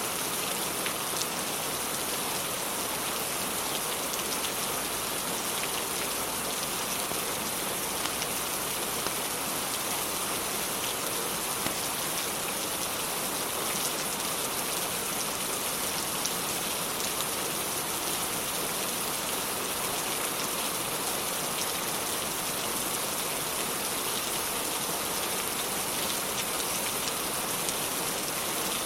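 Steady rain falling: an even hiss with scattered small ticks.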